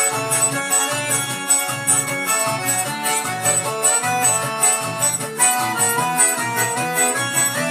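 Electronic keyboard playing a festa junina dance tune: a continuous melody over a steady backing beat and pulsing bass line.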